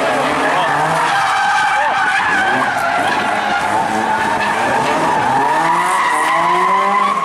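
Rally car engine revving hard, its pitch climbing and dropping several times, over a rush of tyre and road noise. It cuts off abruptly at the end.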